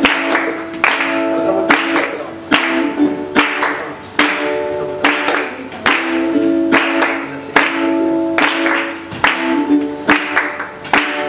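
Acoustic guitar strumming chords in a steady rhythm as a song's introduction, with sharp accented strokes on the beat that may include hand claps.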